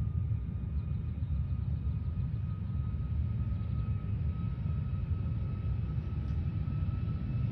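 Boeing 737 MAX 8's CFM LEAP-1B turbofan engines running for takeoff: a steady low rumble with a thin high whine that slowly rises in pitch.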